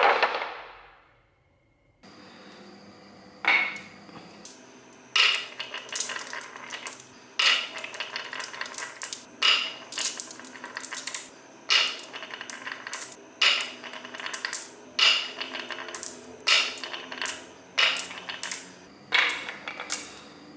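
Small hard objects clicking and clinking against each other in quick clusters about every second and a half, each hit with a short ringing tone. A louder sound fades out in the first second.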